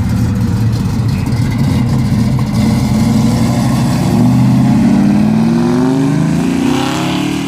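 Ford Shelby GT350's V8 engine pulling away. It runs steadily at first, then revs up with a rising pitch over the second half and drops off again near the end.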